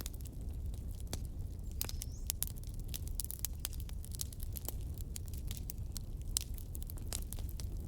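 Wood fire crackling in a fireplace: many sharp, irregular pops and snaps over a low steady rumble of the flames, with a brief rising hiss about two seconds in.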